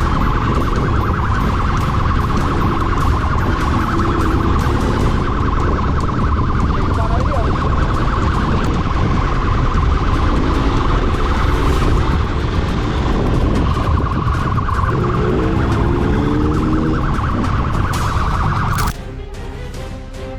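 Police siren sounding continuously in a fast-pulsing electronic tone over a steady low rumble during a motorcycle pursuit; the siren cuts off suddenly near the end.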